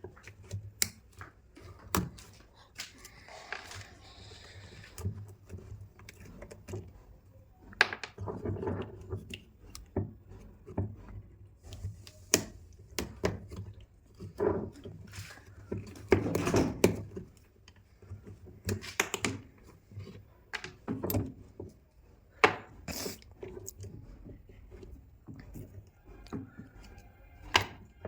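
Irregular knocks, clicks and clinks of metal parts and hand tools being handled while a 2-26 rotary hammer drill is taken apart and worked on.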